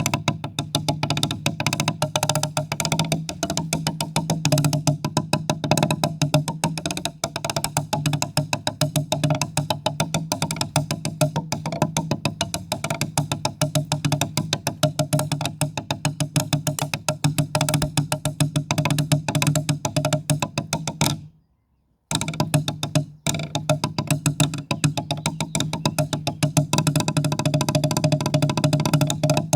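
Percussion music: a rapid, even stream of struck notes over steady pitched tones. It breaks off to silence for under a second about two-thirds of the way through, then resumes.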